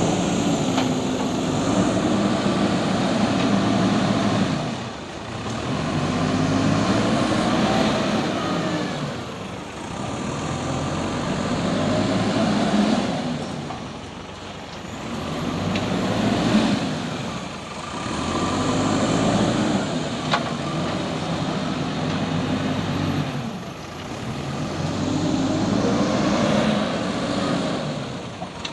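JCB 3DX Super backhoe loader's diesel engine revving up and dropping back again and again, about every four to five seconds, as it works through repeated loading cycles. A single sharp knock comes about twenty seconds in.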